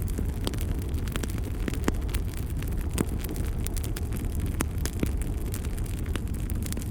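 Wood fire burning in a fireplace: a steady low rumble with frequent crackles and several sharper pops throughout.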